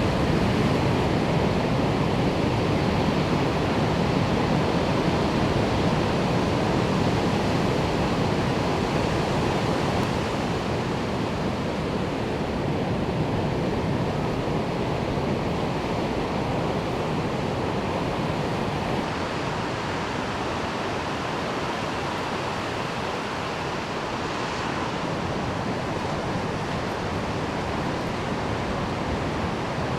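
Steady, even rush of ocean surf, with no distinct breaks or other events.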